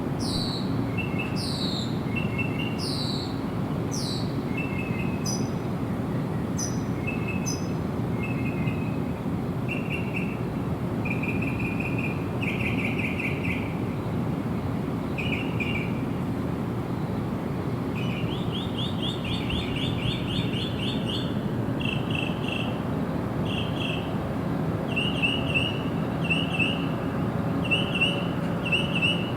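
Several birds singing and calling: high, down-slurred whistles about once a second at the start, then repeated short chirps and trills, over a steady low background rush.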